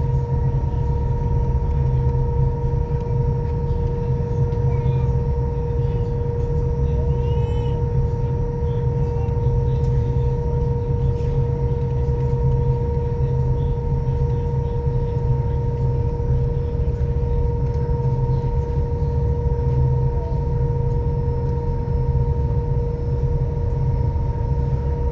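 A passenger ferry's engines and machinery heard on board: a steady low rumble with a constant hum on top, unchanging throughout.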